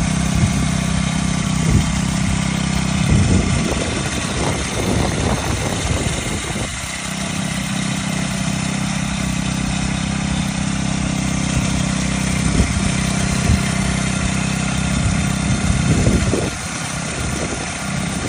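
Honda FF300 tiller's small engine running steadily, with rougher, uneven stretches about three to six seconds in and again near the end.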